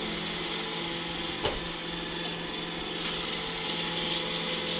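iRobot Roomba E6 robot vacuum running: a steady whine from its vacuum motor and brushes, with a single sharp knock about a second and a half in and the hiss getting a little louder in the second half.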